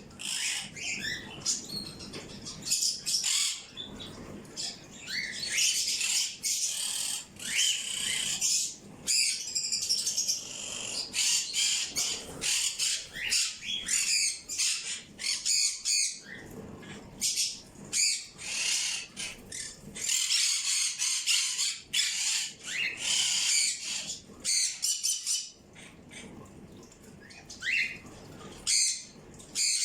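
A flock of birds calling together: a dense, continuous chatter of short high chirps and squawks with a few quick rising notes.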